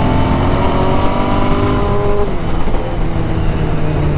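Motorcycle engine under acceleration, its note rising steadily for about two seconds. It then drops and settles into a lower, steady note.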